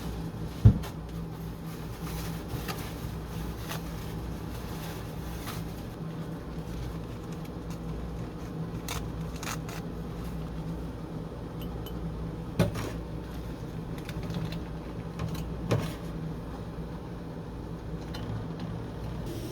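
Steady low hum of an indoor room with a few sharp knocks, the loudest just under a second in and two more about twelve and a half and fifteen and a half seconds in.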